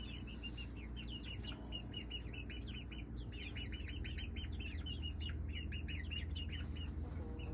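Baby chicks peeping without a break: many short, high chirps close together, a lot of them falling in pitch. A steady low hum runs under them.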